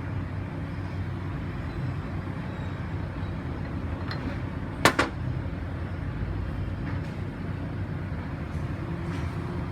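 A steady low hum and rumble of background noise, with one sharp metallic clink about five seconds in as the parts of the oil pump are handled.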